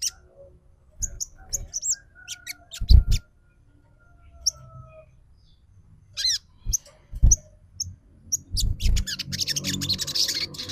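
Sogon trotol calls used as a lure: sharp high chirps and two long falling whistles, then a dense chattering run near the end. A few dull low thumps come through, the loudest about three seconds in.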